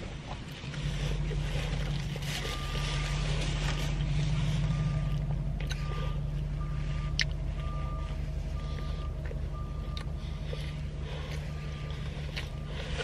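Steady low hum of a car engine idling, with a short electronic beep repeating about every two-thirds of a second from a couple of seconds in, and a few sharp clicks.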